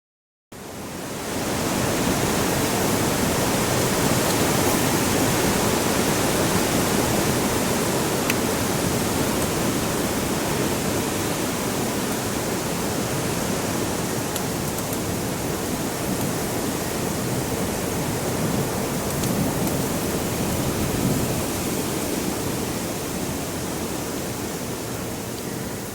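Heavy wind blowing as a steady rushing noise, fading in over the first two seconds and easing slightly near the end.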